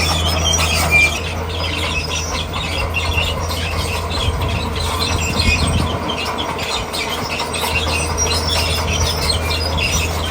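D41P bulldozer's diesel engine running steadily, with a heavier surge about halfway through, while its steel tracks squeal and screech in short repeated squeaks.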